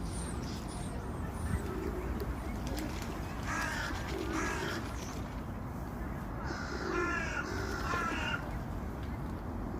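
Outdoor birdsong: a low cooing repeats every second or two, and two spells of harsh, cawing calls come about a third of the way in and again near the end. A few faint high chirps sound near the start, over a steady low background hum.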